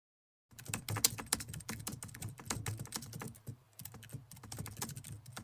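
Rapid, irregular sharp clicks and taps, like keyboard typing, starting about half a second in, over a low steady hum.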